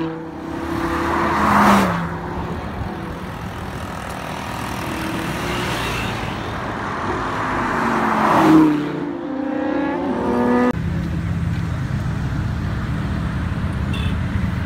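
Lamborghini supercar engines passing at speed, each note dropping in pitch as the car goes by. About eight and a half seconds in, an orange Huracán's V10 passes and its revs rise as it accelerates away. The sound then cuts suddenly to a steady low rumble of Lamborghini engines running at low speed.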